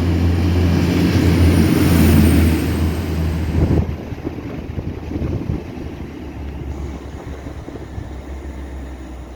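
Motorized railway draisine (track maintenance vehicle) passing close by on the track. Its engine drone is loudest about two seconds in, drops off sharply near four seconds, then fades as it moves away.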